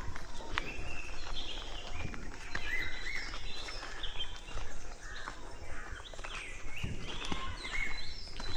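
Several birds chirping and calling, with many short, quick notes, over footsteps on a forest path.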